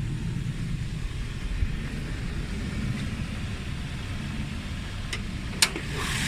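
Nissan X-Trail's four-cylinder engine idling steadily and smoothly, a low even rumble. Two short sharp clicks come about five seconds in.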